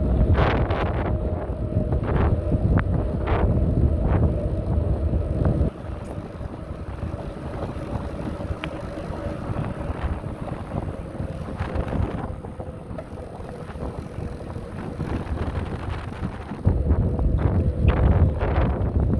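Wind buffeting the microphone of a moving bicycle, with scattered clicks and rattles. The wind noise drops away about six seconds in and comes back near the end.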